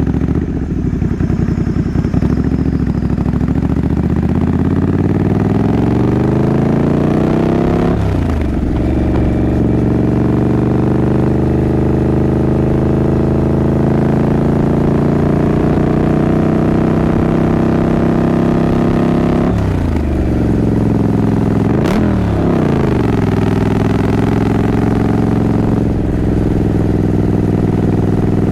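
Triumph Scrambler 900's parallel-twin engine and exhaust on the move, rising in pitch as it pulls through the revs. The pitch drops sharply at a gear change about eight seconds in and twice more about twenty and twenty-two seconds in, then climbs again.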